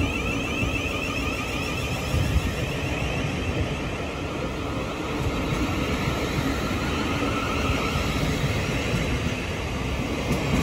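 Thameslink Class 700 electric multiple unit pulling away from the platform, with a steady rumble and a repeating pattern of short rising whine tones from its traction equipment.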